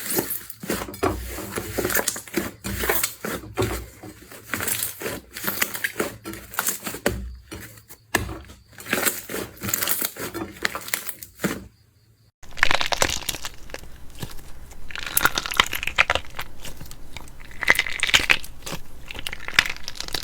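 Slime being squeezed and poked by hand, giving dense crackling and popping clicks. About twelve seconds in it stops for a moment and a brighter, denser crackle starts.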